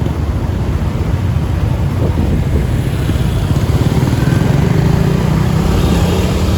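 Motorbike engine running steadily, with a heavy low rumble.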